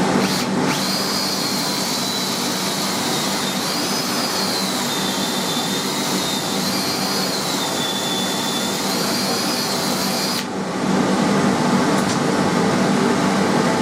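Electric drill boring a bolt hole into a pine anvil block, its motor whine dipping and rising in pitch as the bit loads up in the wood, then stopping sharply about ten and a half seconds in. A steady fan-like hum runs underneath.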